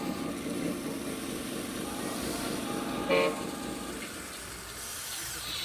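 One short horn toot from a scale RC truck's electronic sound unit, a bit over three seconds in, over a steady low running noise that fades toward the end.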